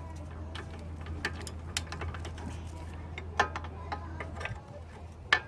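Hand tools working on metal: about half a dozen sharp, irregular clicks and taps over a low steady hum that stops about four and a half seconds in.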